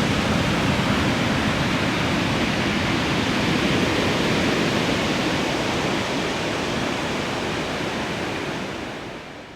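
Heavy surf from typhoon-driven high waves: a steady, dense rushing noise of breaking sea, fading out near the end.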